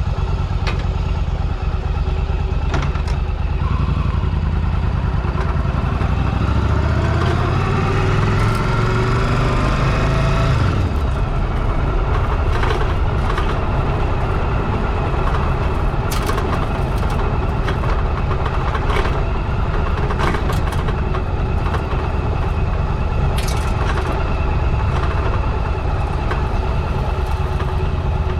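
Motorcycle engine running. About a quarter of the way in, its revs climb for a few seconds as it accelerates, then it settles into a steady run, with a few sharp clicks here and there.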